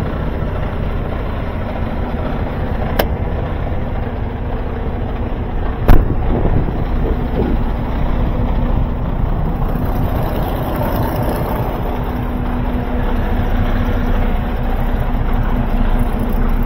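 Semi truck's diesel engine idling steadily after a jump start, with a light click about three seconds in and a loud sharp clank about six seconds in.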